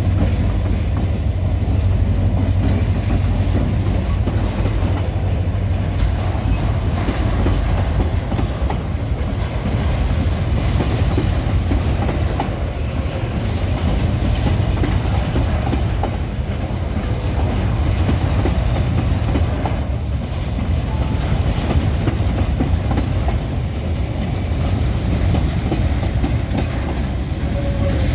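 Empty freight train rolling past on the rails: a steady rumble with dense clatter of wagon wheels, unbroken throughout.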